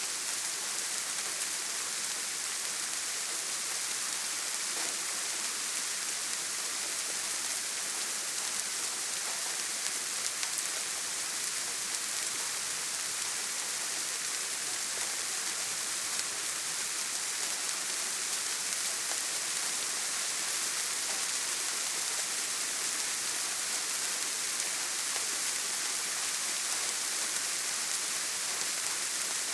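Steady rain falling on a tin roof: an even, unbroken hiss with no thunder.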